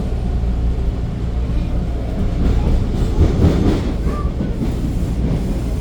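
Toronto subway train on Line 2 running between stations, heard from inside the car: a steady low rumble of wheels on rail with some clatter, a little louder near the middle.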